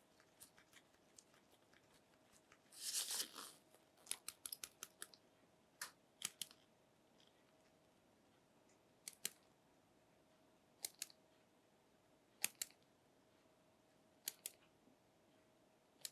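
Faint handling sounds of a new smartphone and its packaging: a brief rustle about three seconds in, then scattered sharp clicks and taps, many in pairs, over a faint steady hum.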